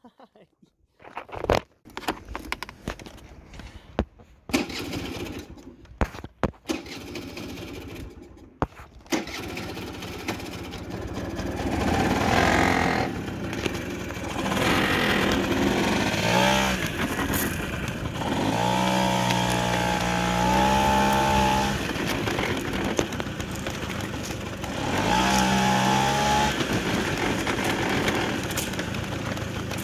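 Honda Vision moped's small engine running while being ridden, revving up and down several times. The first several seconds hold scattered clicks and knocks of handling before the engine is heard steadily from about nine seconds in.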